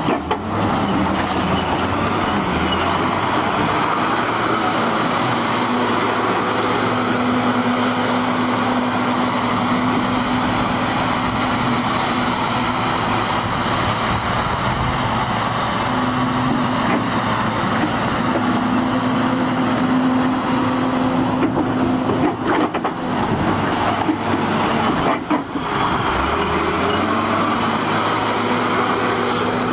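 Deutz diesel engine of a 10-ton rough terrain forklift running steadily, its revs rising and dropping back several times, with a few brief knocks near the last third.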